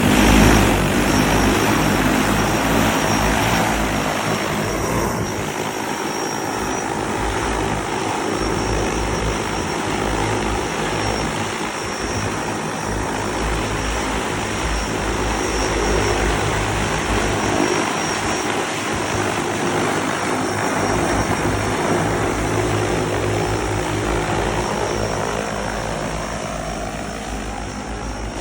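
SUNPCOM one eVTOL's electric propellers running in flight: a steady propeller drone with several held tones, loudest just after the start.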